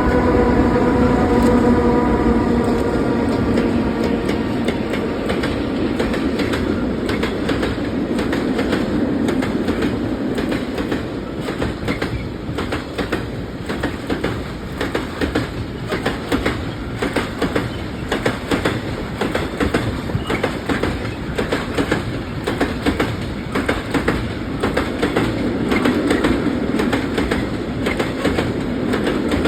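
Freight train passing at speed. A steady pitched hum from the locomotive fades out after the first few seconds. The wagons then roll by with a continuous rumble and a rapid, repeating clickety-clack of wheels over rail joints.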